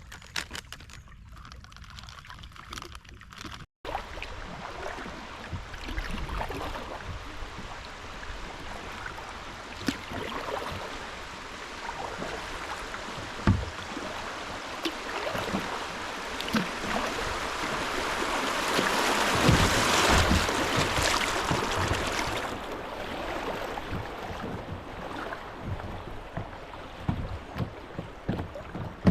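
Kayaks paddling down a creek: water splashing and flowing around the hulls, with scattered knocks. The rush of water swells to its loudest about twenty seconds in, then eases off.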